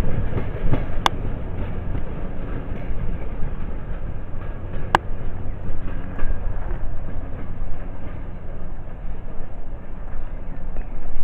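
Heritage railway train running on the track with a steady low rumble, and two sharp clicks, one about a second in and another about five seconds in.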